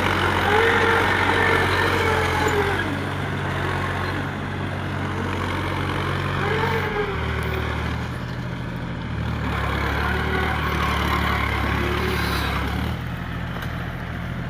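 Mahindra farm tractor's diesel engine running steadily, labouring in a field where the soil gives it trouble. The engine note shifts down about halfway and back up near the end.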